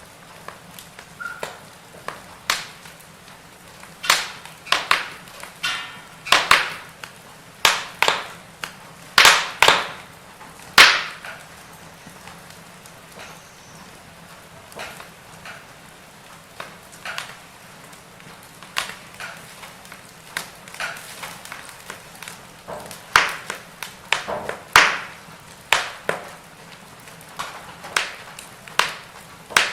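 Firewood burning and crackling, with irregular sharp pops and snaps over a soft steady background. The pops come thickly a few seconds in, thin out midway, and come thickly again near the end.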